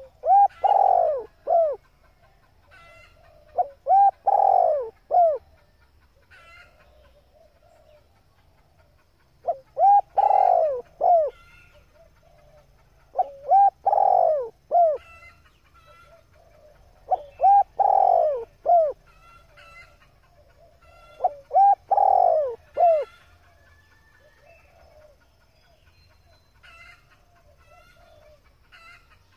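Hen spotted dove cooing: six phrases of three or four low hooting notes, one every three to four seconds, stopping a little before the end. Faint chirps of small birds come between the phrases.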